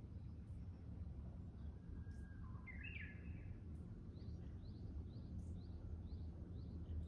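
Wild birds singing: a short, louder call about halfway through, then a run of quick, high chirps repeated about twice a second, over a steady low background rumble.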